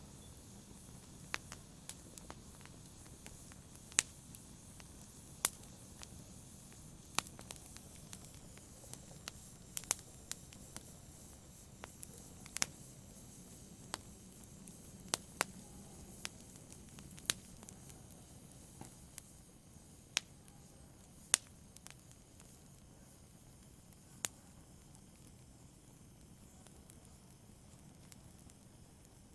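Fire in a fireplace crackling: irregular sharp pops over a low steady hiss, the pops thinning out over the last few seconds.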